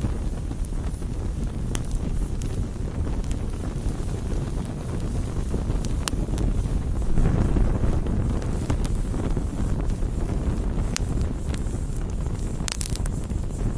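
Wood campfire burning: scattered sharp crackles and pops over a steady low rumble, which swells louder for a moment about seven seconds in.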